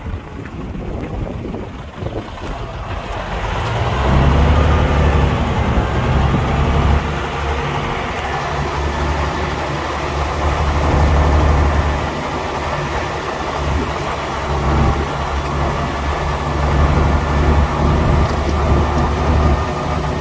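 Bulldozer's diesel engine working under load. About four seconds in it picks up revs and then holds a low, steady note that swells and eases. Before that there is only a low rumble with wind on the microphone.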